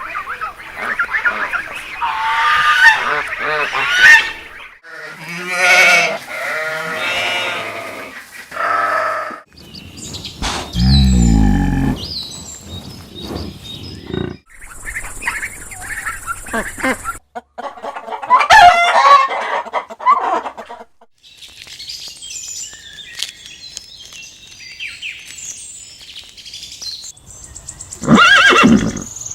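Calls of several different farm animals in turn, each a separate cry or run of cries a few seconds long, with a stretch of small high bird chirps past the middle and a loud call near the end.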